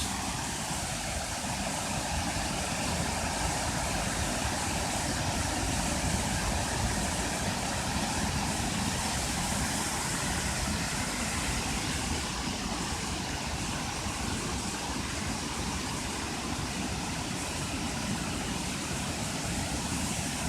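Waterfall rushing: a steady, even roar of falling water that holds level throughout.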